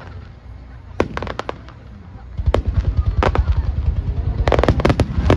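Fireworks going off: sharp bangs and crackling bursts, and from about two and a half seconds in a dense run of low booms that keeps building.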